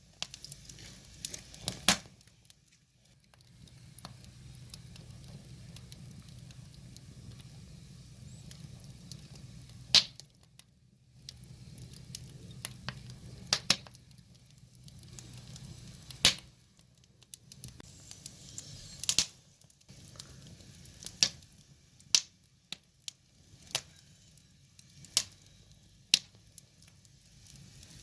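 Wood fire crackling: about a dozen sharp, irregular pops from burning logs over a low, steady rumble of flames that fades and returns.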